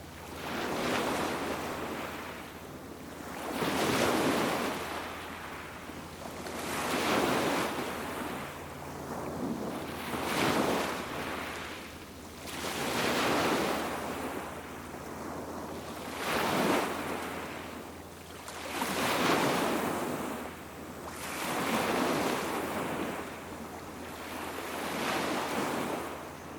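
Sea waves breaking and washing on a beach, a surge that swells and fades about every three seconds, nine times in all.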